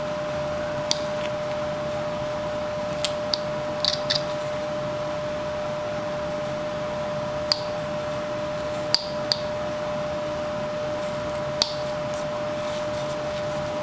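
Carving knife cutting small chips from a wooden carving: short, sharp snicks at irregular intervals, over a steady electrical hum.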